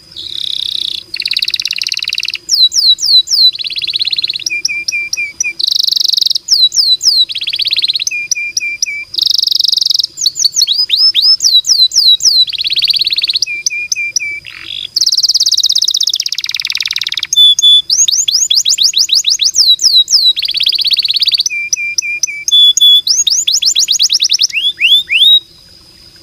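Domestic canary singing a long, loud, unbroken song of rapid rolling trills, fast-repeated sweeping notes and buzzy passages, stopping about a second before the end.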